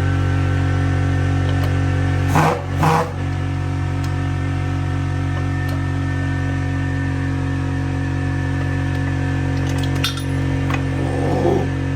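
Steady electrical hum, with two quick metallic clanks a little over two seconds in and a few light clicks near the end. The clanks and clicks come from metal parts being handled while a motorcycle's rear wheel and brake caliper are fitted.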